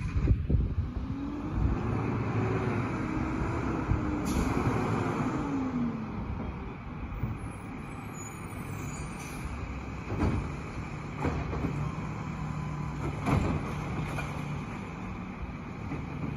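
Side-loader recycling truck running, its engine pitch rising and falling for several seconds near the start, with a brief hiss about four seconds in and a few short knocks later.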